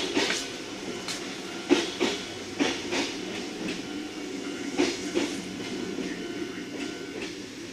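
Kintetsu limited express train passing on the adjacent track: its wheels clack over the rail joints in pairs, about once a second, over a steady running rumble that eases off near the end as the last car goes by.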